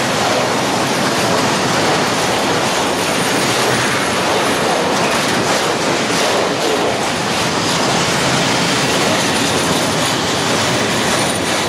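Hooded covered freight wagons rolling past close by, a steady loud rumble and clatter of wheels on the rails with repeated clicks over the rail joints; the last wagon goes by near the end.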